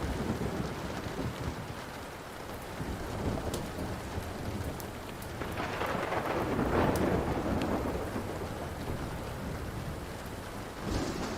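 Steady rain with a rumble of thunder that swells and peaks past the middle, then fades, with another starting near the end. A few sharp pops of a crackling wood fire sound over it.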